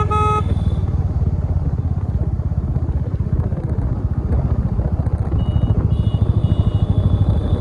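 Yamaha MT-15's single-cylinder engine running steadily while riding, its low rapid pulsing throughout. A vehicle horn sounds at the start and stops about half a second in.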